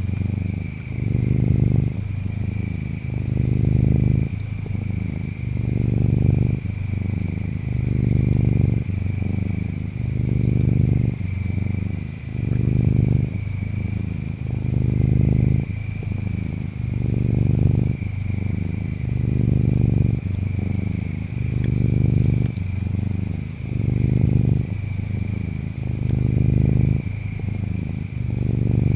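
Domestic cat purring steadily, swelling and fading about once a second with its breaths. Behind it, insects keep up a steady high chirring, with brief very high chirps every few seconds.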